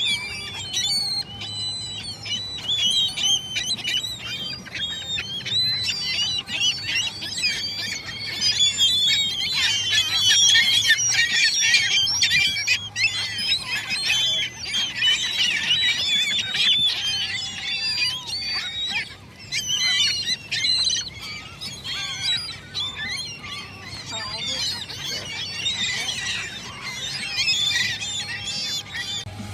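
A flock of gulls calling over one another, a dense run of squawks and cries throughout, busiest and loudest in the middle stretch.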